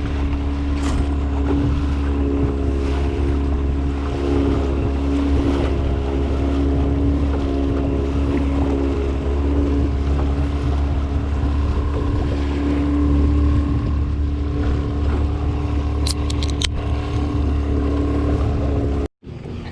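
Mercury 15 hp two-stroke outboard running steadily at speed, with wind and water rushing past. It cuts off abruptly near the end.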